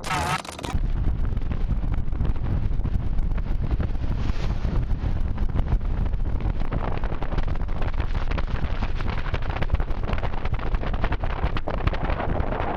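Strong wind buffeting the microphone: a loud, steady rushing rumble with many small gusts and crackles.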